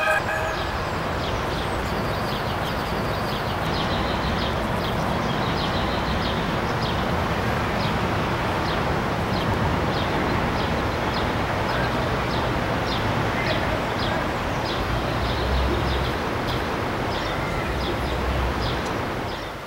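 Outdoor ambience: a steady rushing noise with a bird's short high chirps repeating about twice a second.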